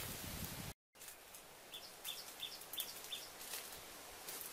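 A bird repeats a short high chirp five times in quick succession, about three a second, over a steady outdoor hiss. It is preceded by a brief rustle of footsteps in dry leaf litter and a moment of total dropout just under a second in.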